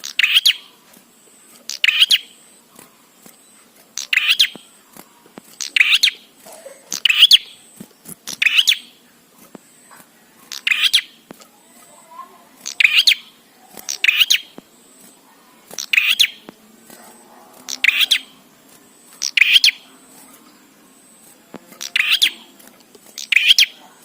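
Prenjak song: short, loud chirping phrases repeated about every one to two seconds, around fourteen in all.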